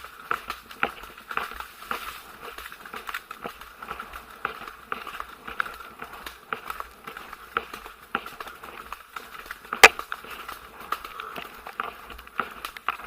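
Horses moving along a trail: a run of irregular hoof clicks and knocks, with one sharper knock about ten seconds in.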